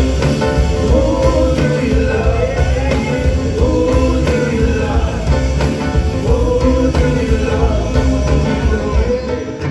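A live band playing rock-leaning music with a steady beat under a wavering lead melody.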